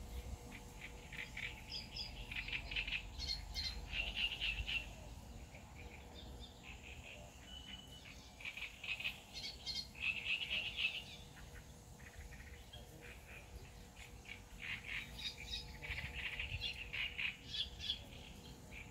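Birds chirping: quick runs of high notes that come in three spells, the loudest in the first few seconds, over a low outdoor rumble.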